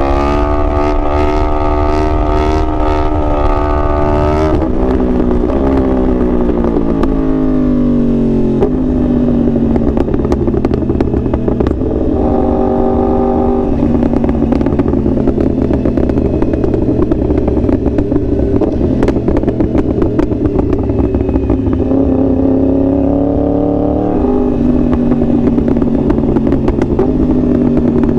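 2021 Yamaha R1's crossplane inline-four engine heard from the rider's position. It holds high revs for a few seconds, then drops in pitch in steps as the throttle is rolled off and it shifts. It cruises at lower revs with a short rise in pitch midway, climbs again a few seconds before the end, then falls off once more.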